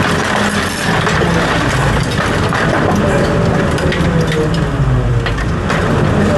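Heavy equipment engine running under load with a slowly wavering whine, over continuous crunching and cracking of material being crushed.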